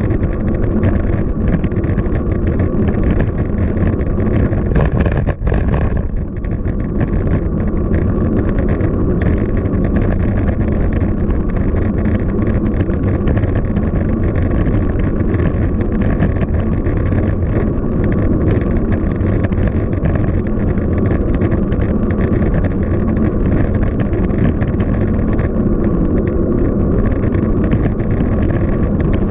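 Steady wind rush on the microphone of a camera riding on a moving bicycle, a loud, even rumble heaviest in the low end, with a brief dip about five seconds in.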